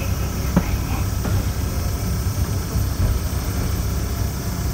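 Narrow-gauge diesel train running slowly, a steady low engine and running rumble heard from on board, with two brief knocks about half a second and a second in.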